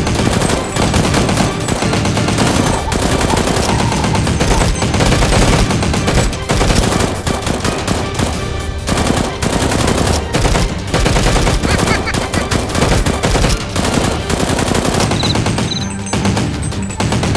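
Sustained rapid automatic gunfire, with dense bursts of shots one after another, over background music.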